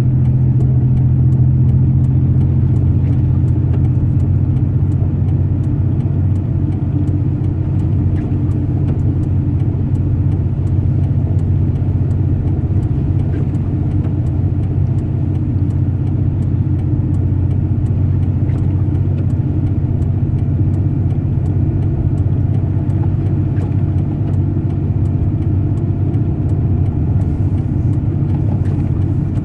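Truck driving at a steady pace, its engine and road noise heard as a steady low hum from inside the cab.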